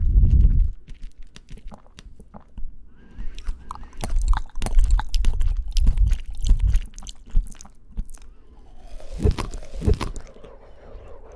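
Close-miked chewing of fresh fruit, with wet crunching, mouth clicks and a steady chewing rhythm; two sharper bites or crunches come near the end.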